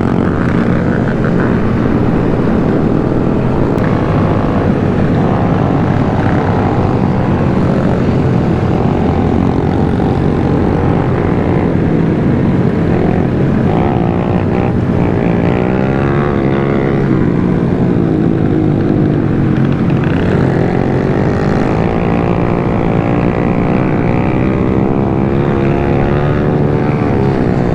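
Small single-cylinder mini bike engines of a group ride running steadily together, with some revving up and down about halfway through.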